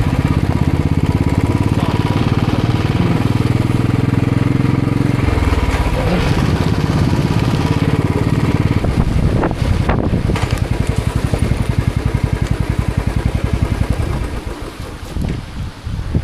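Motorcycle engine running while riding, its note shifting about five seconds in and dropping away near the end.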